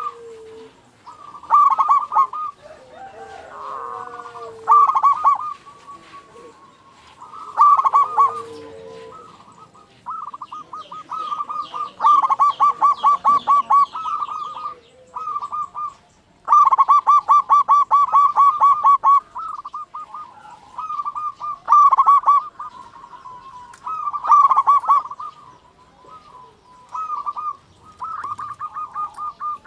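Zebra dove (perkutut) singing: repeated bursts of quick, staccato cooing notes, some runs of a dozen or more notes, with short pauses between phrases.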